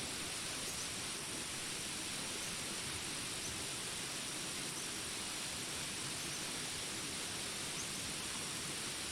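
Steady rain hiss mixed with jungle ambience: a constant high-pitched drone and a few faint, short chirps scattered through.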